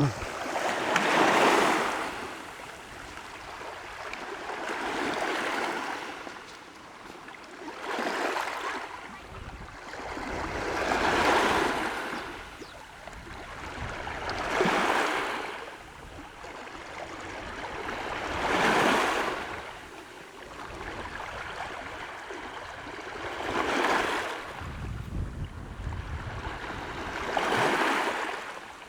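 Small sea waves washing up on the shore, about eight in a row, each one a hiss that rises and falls away.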